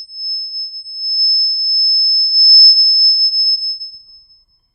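A single high-pitched pure tone held steady for about four seconds, then fading out near the end. It is played as the example of a high-pitch sound from fast vibration.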